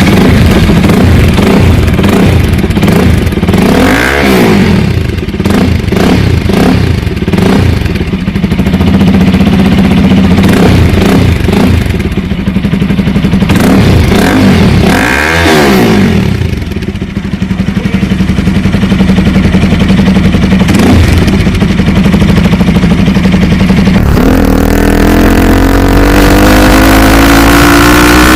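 Bajaj Pulsar NS200's single-cylinder engine through an aftermarket exhaust, idling and revved sharply up and back down twice. Near the end it pulls away, the note climbing steadily in pitch.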